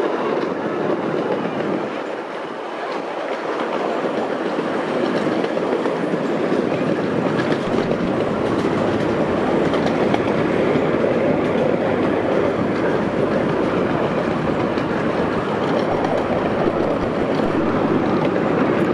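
Small park train running along its track, heard from its open passenger cars: a steady rolling rumble of wheels on rail with faint clicks, growing a little louder a few seconds in.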